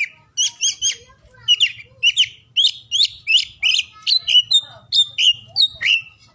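Oriental magpie-robin (kacer) singing a fast run of varied whistled notes that glide up and down, several a second, with a short break about a second in. A faint steady low hum runs beneath.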